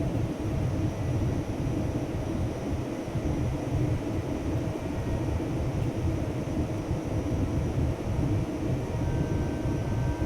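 Airliner cabin noise: a steady low rumble of the jet engines and airflow, with no breaks.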